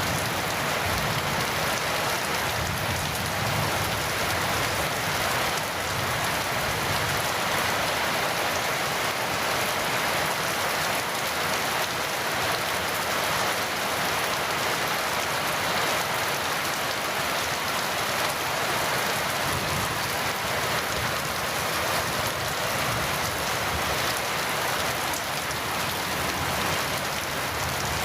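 Heavy rain falling steadily, a dense even hiss of drops with no break or thunderclap.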